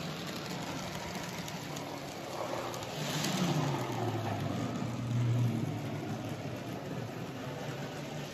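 N gauge model train running on the layout: a steady motor hum and rumble that grows louder about three seconds in, with a falling pitch, and again around five seconds in as it passes close.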